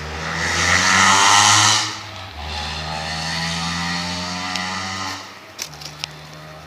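A motor vehicle engine revving as it passes, loudest about a second in. A second stretch of steady engine running follows and fades out about five seconds in, with a few sharp clicks near the end.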